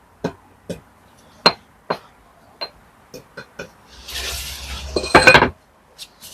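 A steel brick trowel tapping a freshly laid brick down into lime mortar: about eight sharp taps with a slight metallic ring. Then a scrape, and a loud clatter about five seconds in.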